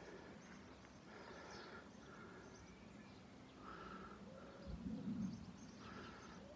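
Garden birds singing faintly, short chirping phrases repeating, with a brief low thud about five seconds in.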